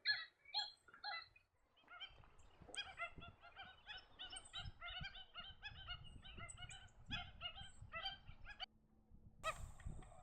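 Waterbirds calling: a quick run of short, nasal, honking notes through most of the stretch, with a brief burst of noise near the end.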